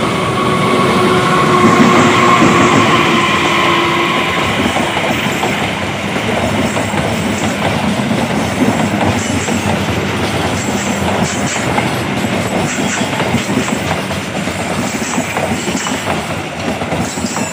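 A diesel locomotive passes close by at the head of a passenger train, its engine drone loudest in the first few seconds. The coaches then roll past steadily, wheels clacking over the rail joints, with brief high wheel squeals as the train slows to stop at the station.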